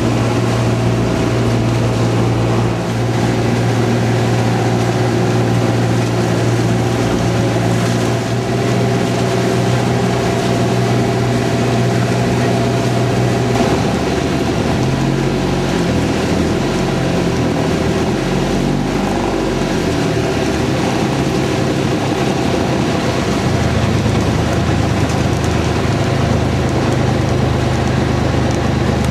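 Engine of a bangka outrigger pump boat running steadily under way, with a constant hiss over it. Its note wavers and shifts for several seconds in the middle before settling back to a steady drone.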